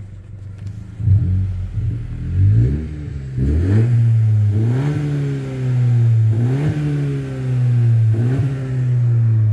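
2019 Honda Civic Sport Hatchback's 1.5-litre turbocharged four-cylinder engine running and being revved about five times, the pitch rising with each press of the throttle and settling back between them.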